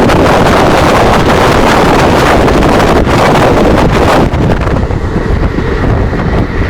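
Fast train passing close by: a loud rushing roar with wind buffeting the microphone, which eases about four seconds in to a lower rumble of the train running on.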